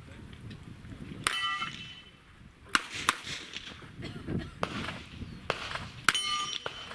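Handgun shots cracking several times, two of them followed by a steel target ringing for about half a second.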